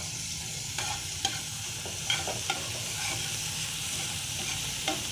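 Ginger-garlic paste sizzling in hot ghee in a metal frying pan while a spatula stirs it, with a steady hiss and a few sharp scrapes and taps of the spatula against the pan.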